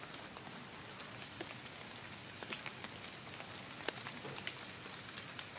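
Light rain or water drops falling: a steady soft hiss with many irregular, sharp drop ticks, a few louder ones around the middle.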